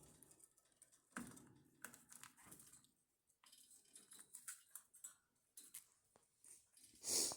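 Faint, scattered light clicks and taps, with a brief louder hiss of noise near the end.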